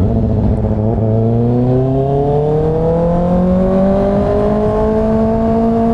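Kawasaki ZX6R's inline-four engine accelerating steadily in one gear, its pitch rising smoothly over several seconds, with a low rush of wind noise underneath.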